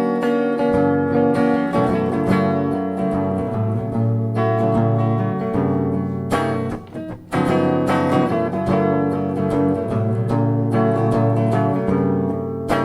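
Live band playing an instrumental passage between sung lines, led by strummed guitar over low bass notes, with a brief break about halfway through before the playing picks up again.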